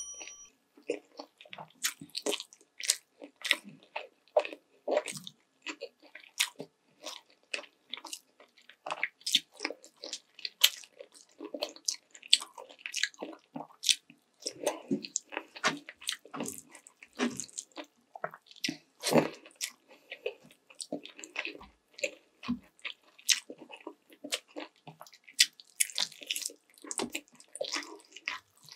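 Close-miked chewing and mouth sounds of a person eating sweet and sour chicken legs in sauce with rice: irregular smacks and clicks, several a second.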